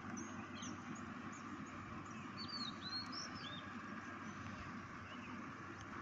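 Small birds chirping: a scattering of short, quick high chirps, most of them bunched around the middle, over a steady outdoor background hiss.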